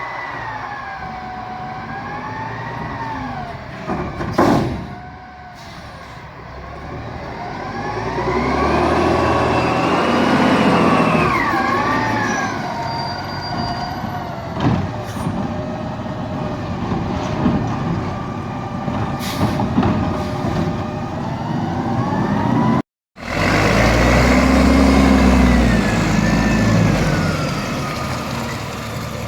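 Garbage truck engine revving up and down as it powers the packer, with a whine that rises and falls with the revs and a few sharp knocks. The sound breaks off briefly about two-thirds of the way through, then comes back as a deep, rumbling rev.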